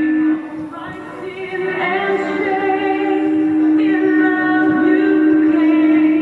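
Music: a song sung by a woman's voice over held accompanying notes.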